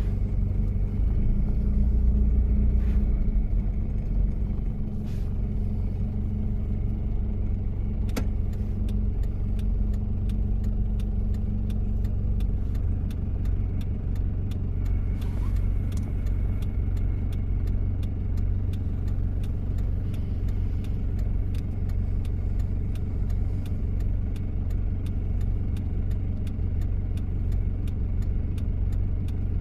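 1993 Toyota Prado's diesel engine running steadily with a low rumble while the 4x4 is driven, a little louder for a couple of seconds near the start. A faint, regular ticking runs alongside it from about eight seconds in.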